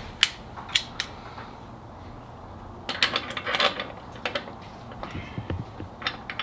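Scattered sharp metallic clinks and taps of hand tools and loose hardware: three single clicks in the first second, then a quick flurry about three seconds in, and a few more later.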